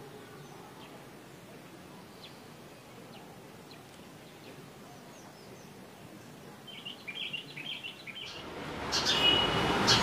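Faint, scattered bird chirps over a low background hiss, then a quick run of chirps about seven seconds in. Near the end a louder outdoor background rises, with more bird calls over it.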